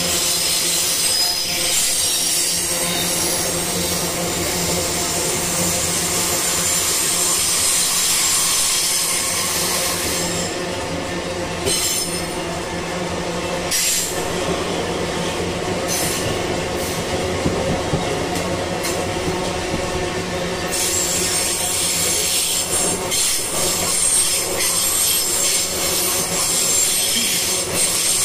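Freight train cars rolling past on the rails, with a steady rumble and high-pitched wheel squeal. The squeal eases off for a while in the middle and comes back near the end.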